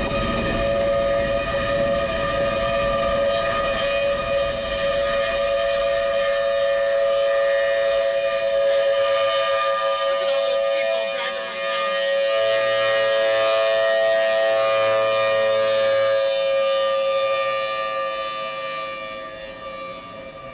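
Federal Signal Thunderbolt outdoor warning siren sounding a steady, multi-toned wail for a tornado warning, with a low rumble under it for the first few seconds; the siren grows fainter near the end.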